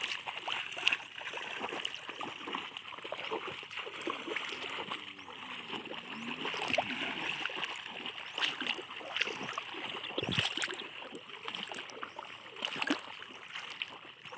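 River water splashing and sloshing in many irregular small splashes, over a steady rush of flowing water.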